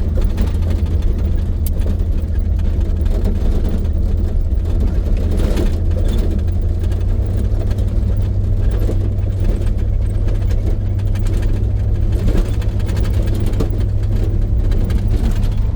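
1983 GMC C2500 pickup heard from inside the cab while driving: a steady low engine and road rumble.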